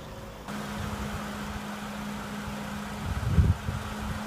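Car engine idling with a steady hum, most likely the 2015 Audi A3's 1.8-litre turbo four-cylinder, with two short low thumps a little after three seconds and near the end.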